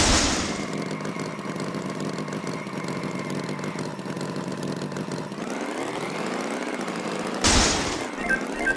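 Cartoon tractor engine sound effect running steadily at idle, with a sudden loud burst of noise at the start and again about seven and a half seconds in.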